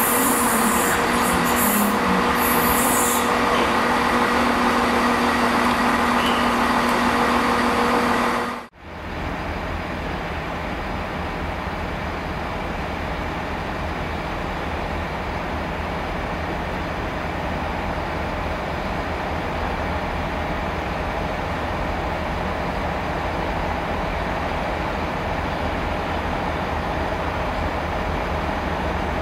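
Loaded steel-coil freight wagons rolling past close by, wheels on rail with a steady multi-tone hum. After a sudden cut about nine seconds in comes a steady low rumble from a Class 66 diesel locomotive (two-stroke V12) slowly approaching at the head of a freight train.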